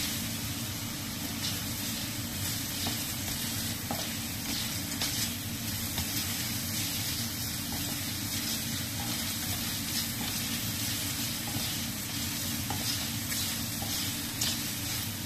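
Sliced onion sizzling in oil in a stainless steel frying pan, stirred with a spatula. The sizzle is steady, with a few light scrapes and taps of the spatula against the pan.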